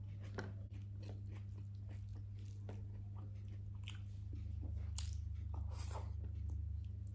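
Close-up chewing and biting into crispy fried chicken, with small irregular crunches and mouth clicks. A steady low hum runs underneath and swells slightly from about four seconds in.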